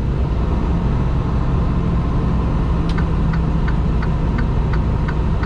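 Semi truck's engine running steadily, heard from inside the cab. About three seconds in, the turn signal starts clicking at about three ticks a second.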